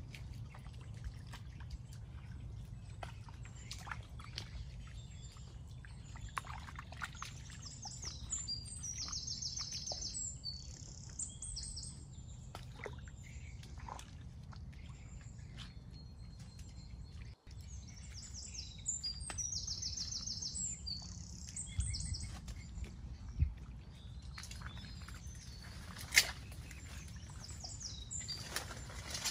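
Birds calling in a mangrove forest in three spells of high, rapid trilling notes. Under them are a steady low rumble and scattered small clicks, with a few sharper knocks in the second half.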